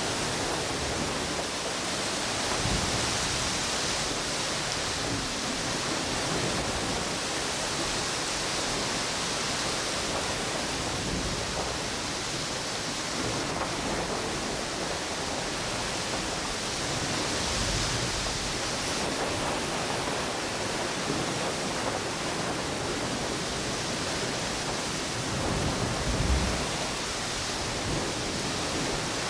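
Ocean waves washing on a beach and wind blowing through palm trees: a steady rushing hiss that swells and eases, with a brief louder surge near the end.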